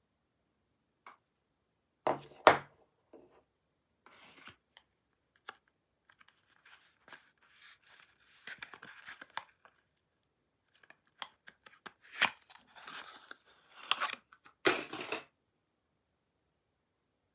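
Soap packaging being unwrapped by hand: bursts of tearing and crinkling wrapper with small clicks in between, loudest about two seconds in and again near the end.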